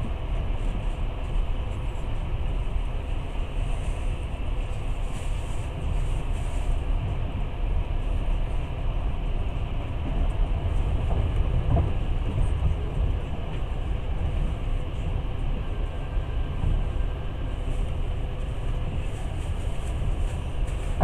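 Passenger train running steadily, heard from inside a carriage: a continuous low rumble of wheels on rails.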